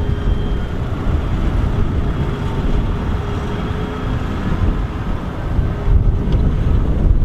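Large tractor engine running steadily, with a low rumble and a faint steady drone, and wind noise on the microphone.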